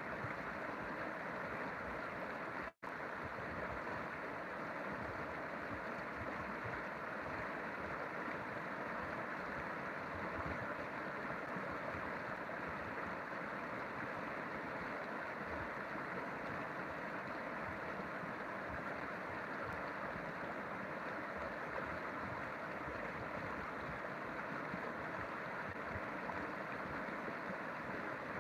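River water flowing, a steady even rush that holds the same level throughout, with a brief cut to silence about three seconds in.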